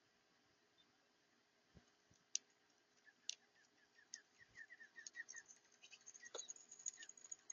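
Small backyard birds calling: a quick run of short chirping notes, a few sharp clicks among them, then busier high-pitched chatter near the end.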